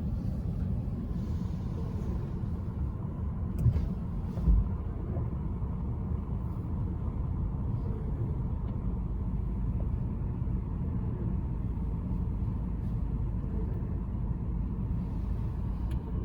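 Steady low rumble of a car's engine idling, heard inside the cabin, with two dull thumps about four seconds in.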